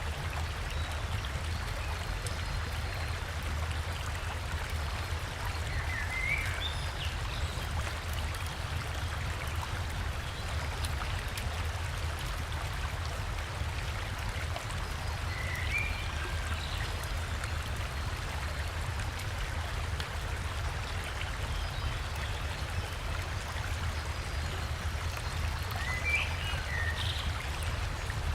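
Steady rush of a river and waterfall, with a bird giving a short call three times, about ten seconds apart.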